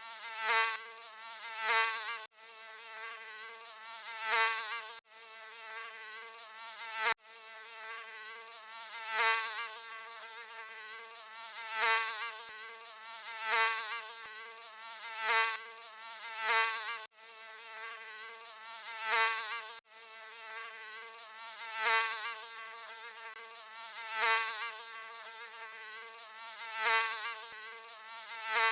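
Mosquito wingbeat buzz, a high wavering whine that swells and fades about every second and a half like a mosquito flying close past the ear. A few times the sound breaks off for an instant and resumes.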